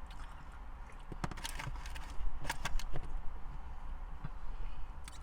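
Close-up eating: crunching and chewing of fried fast food, with sharp mouth clicks in two clusters in the first three seconds and a few more near the end, over a steady low hum.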